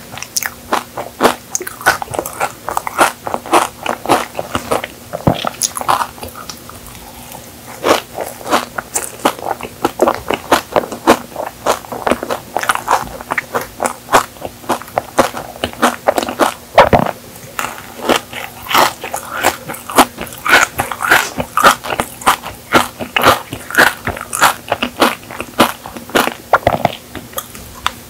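Close-miked eating of pistachio kadaif chocolate cake: dense, irregular crunching and chewing of the crisp shredded kadaif filling, with a short quieter stretch about six seconds in.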